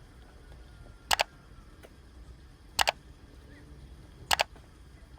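Three sharp double clicks or knocks, each two quick strokes, spaced about a second and a half apart.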